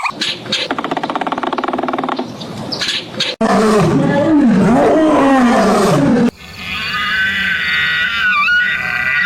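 Three different animal calls cut one after another: a fast pulsing call, then a loud, low, wavering call about three and a half seconds in, then a higher call with several held tones that wobble near the end.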